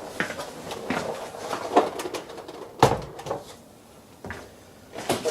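Plastic trim parts being unclipped and handled by hand: a series of clicks and knocks, the loudest about three seconds in and another near the end.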